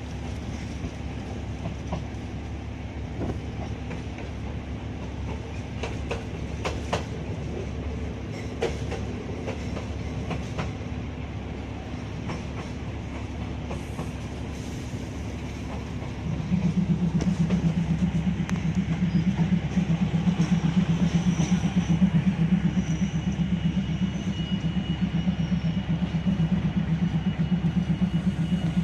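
A train running, heard from on board: a steady rumble of wheels on the rails with scattered clicks from the rail joints. A little past halfway a louder, low drone sets in suddenly and stays.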